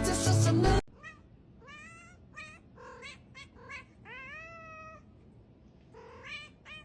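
Background music that cuts off abruptly just under a second in, then a cat meowing repeatedly: about eight meows, mostly short, with one longer drawn-out meow in the middle.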